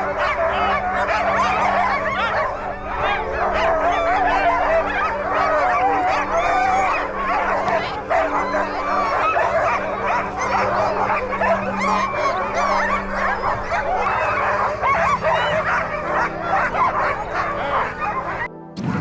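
A pack of sled huskies yipping, whining and howling all at once, many overlapping voices in a dense chorus. It cuts off abruptly near the end.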